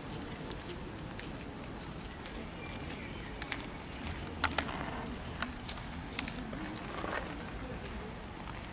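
Several small birds chirping and singing in short high calls, mostly in the first half, over a steady outdoor hiss, with a few sharp clicks.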